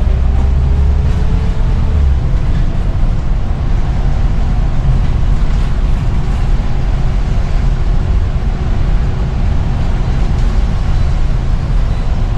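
Scania CN94UB single-deck bus engine running on the move, a steady drone with road noise; the deepest part of the sound eases about two seconds in, then holds steady.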